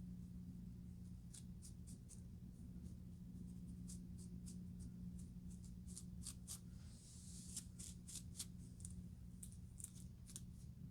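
Faint scratching through hair on the scalp, to loosen dandruff: short, dry scraping strokes in quick groups of three or four, with pauses between, over a steady low hum.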